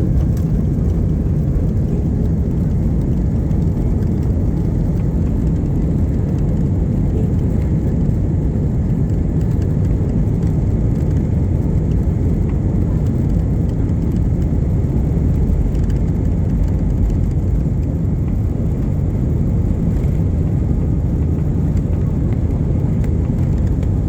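Steady low rumble of a passenger jet airliner's engines during take-off, even in level with no clear rise or fall.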